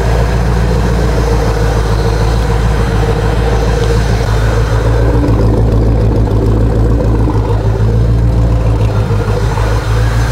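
GM LT4 5.7-litre small-block V8 idling steadily at about 800 RPM on a cold start, freshly fired up and running smooth.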